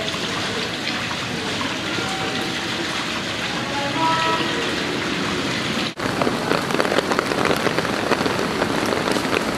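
Heavy typhoon rain falling, a steady hiss. About six seconds in the sound breaks off for an instant and comes back closer, with a dense crackle of drops hitting hard surfaces.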